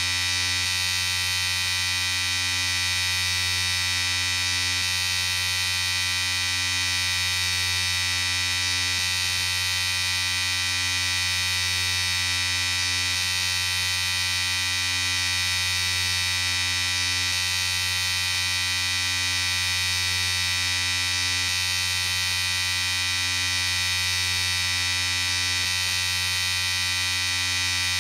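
Electric shaver running steadily with an even, unbroken buzz.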